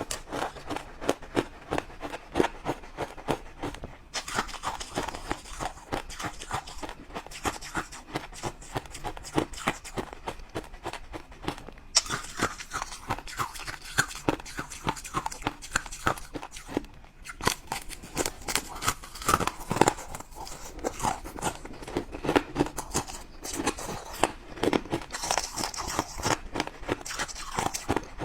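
A person biting and chewing crunchy ice, with rapid, sharp crunches several times a second throughout.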